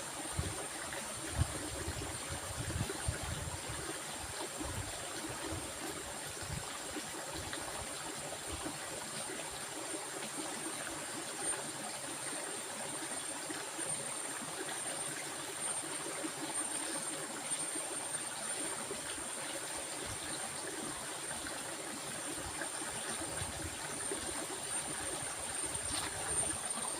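Stream water flowing steadily, an even rushing and trickling.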